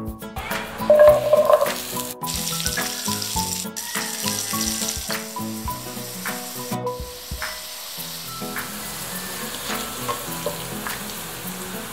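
Carrot chunks frying in hot oil in a nonstick pan, with a steady sizzle. The sizzle surges loudest about a second in as the carrots go into the oil, with light background music underneath.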